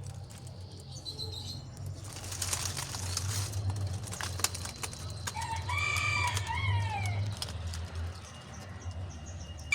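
A rooster flaps its wings in a short flurry, then crows once, a long call that falls away at the end. A steady low hum runs underneath.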